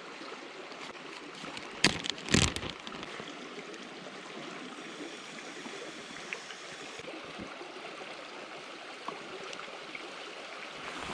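Upstream mountain river running steadily, with two sharp knocks about two seconds in.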